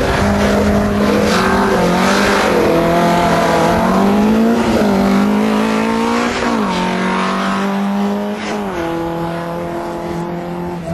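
Slalom car's engine revving hard through a cone course, its pitch climbing and then dropping sharply several times as the driver lifts off and shifts. The engine gets a little quieter after about eight seconds as the car heads away.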